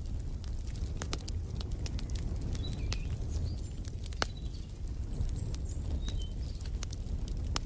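Wood fire crackling, with irregular sharp pops over a low steady rumble, and a few short, faint bird chirps in the middle.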